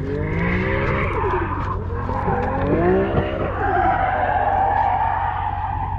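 Nissan Silvia S15 drift car sliding past with its tires squealing, the engine revs climbing and dropping twice. The squeal grows steadier and stronger over the last two seconds.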